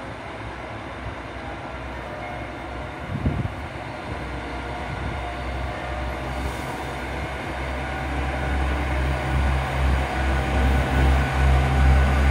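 An approaching train: a low rumble and hum grows steadily louder, pulsing in a regular beat near the end. A single brief thump comes about three seconds in.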